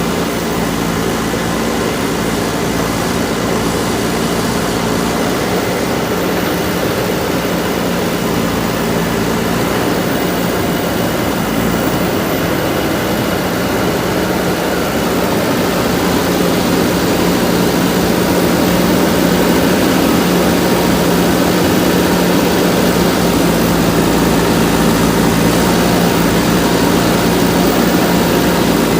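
JCB backhoe loader's diesel engine running steadily with a constant hum, getting a little louder about halfway through.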